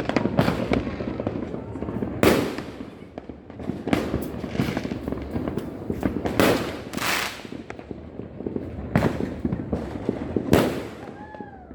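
Fireworks and firecrackers going off all around, a dense run of bangs and crackling pops with the biggest blasts about two, six to seven, and ten and a half seconds in.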